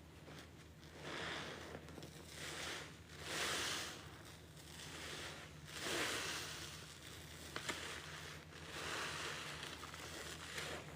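Wet, soapy sponge loaded with pine cleaning paste being squeezed over and over, squelching in about six swells, each about a second long.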